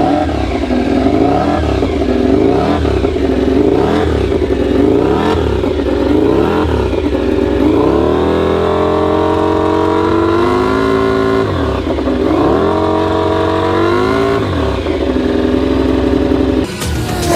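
MotoGP racing motorcycles at high revs on track: engine notes rise and fall over and over as bikes pass, then an engine pulls with a long rising pitch that drops back sharply twice, like gear changes under acceleration. The sound changes abruptly just before the end.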